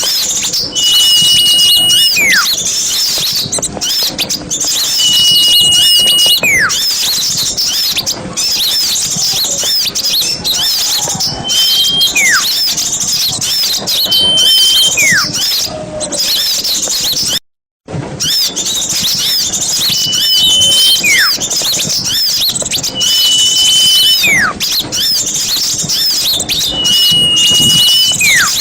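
Bird-lure recording of a dense chorus of small songbirds chattering and twittering. Over it a call repeats every few seconds: a short, level high whistle followed by a falling whistle. The sound cuts out completely for a moment a little past halfway, then carries on.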